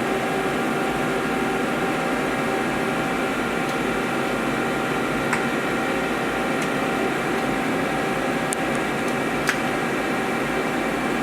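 Old CNC machine running with a steady hum made of several held tones while its axes slowly return to their home position (zero return). A few faint clicks sound partway through.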